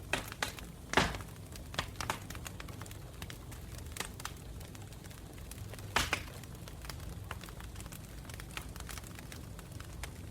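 Wood campfire crackling, with many small snaps and two louder pops, about a second in and about six seconds in, over a low steady rumble.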